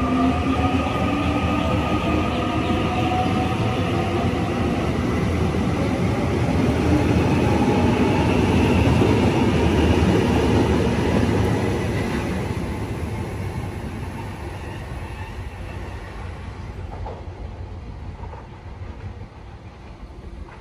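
A passenger train running past on the rails: a dense rumble with a whine that slides in pitch over the first few seconds. It is loudest about halfway through, then dies away.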